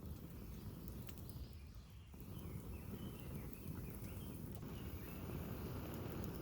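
Quiet outdoor ambience: a steady low rumble with faint, distant bird chirps for a couple of seconds near the middle.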